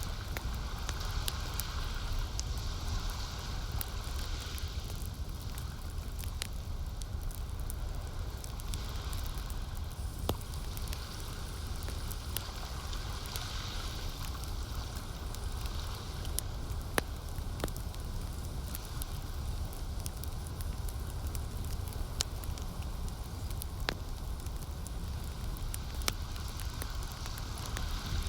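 Wood campfire crackling, with scattered sharp pops over a steady soft hiss and low rumble; lake water laps gently beneath, swelling and fading every few seconds.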